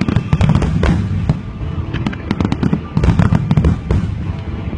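Aerial fireworks bursting in rapid succession: a dense run of booms and sharp crackles, heaviest at the start and again about three seconds in.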